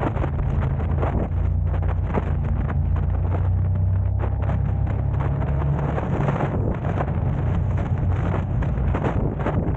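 Steady low rumble of a car driving, with wind buffeting the camera's microphone and frequent short knocks and crackles.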